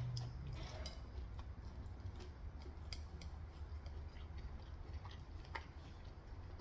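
Faint, scattered small clicks and taps of eating at close range, over a low steady hum.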